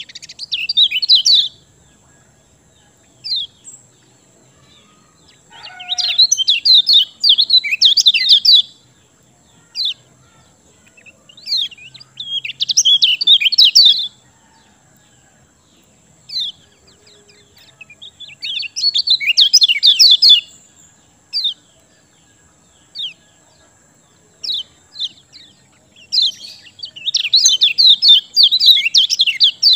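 Kecial kuning (yellow white-eye) singing in full 'gacor' song: bursts of rapid, high twittering a couple of seconds long about every six seconds, with single sharp chirps in between.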